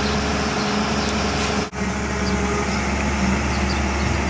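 Engine of the barge's work machinery running steadily at a constant speed, a low even drone, with a momentary cut-out a little under two seconds in.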